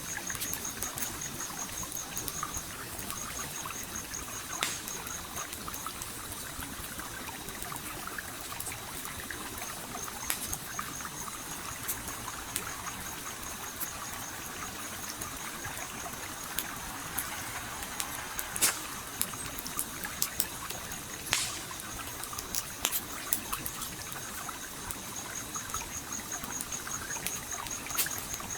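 A stream flowing steadily while a campfire crackles, with sharp pops scattered through it, a few of them standing out. A high, rapidly pulsing trill runs through much of it.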